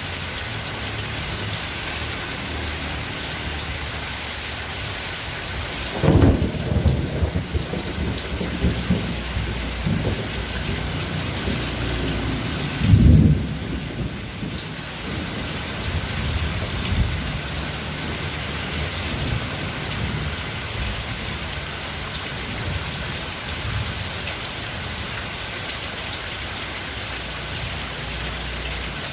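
Steady rain falling, with thunder: a loud clap about six seconds in that rumbles on for a few seconds, a second loud clap about thirteen seconds in, and fainter rumbles shortly after.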